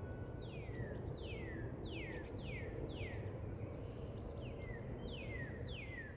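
A songbird repeating a clear whistled note that falls in pitch, about two a second, over a steady low outdoor rumble.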